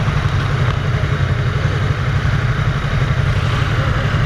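2015 Yamaha YZF-R3's 321 cc parallel-twin engine running steadily at an even speed, with no revving.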